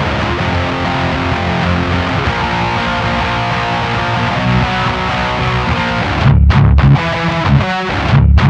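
Distorted electric guitar riff through a Diezel VH4 tube amp running a black-plate RCA 12AX7 preamp tube and GT-E34LS power tubes. From about six seconds in it breaks into hard, stop-start low chugs with short gaps. The shop judges this tube pairing's tone not bad but light in the bass and slightly blurred.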